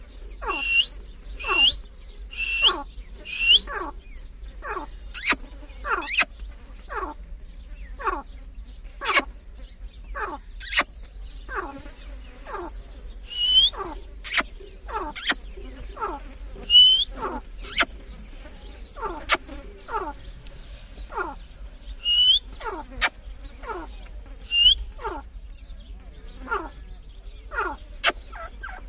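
Grey francolin (dakhni teetar) calling over and over: a rapid series of shrill notes that each slide steeply down in pitch, about one to two a second, with sharp clicks scattered among them.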